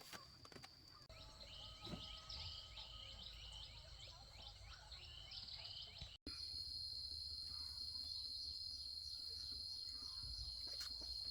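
Faint outdoor insect drone, a steady high-pitched tone. For a few seconds in the middle it gives way to a run of rapidly repeated short chirps, then the drone returns louder after an abrupt cut.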